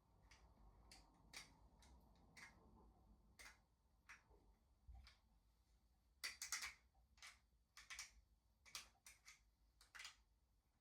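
Faint, irregular clicks and light taps, with a denser cluster of louder clicks about six seconds in and a few more near the end.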